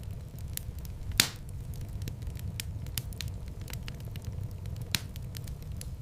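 Wood fire crackling, with many small ticks over a low steady rumble of flames. A sharp, loud pop comes about a second in and a smaller one near the end.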